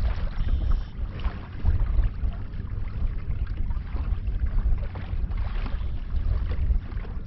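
Wind buffeting the microphone in a heavy, uneven rumble, with choppy water splashing against a kayak.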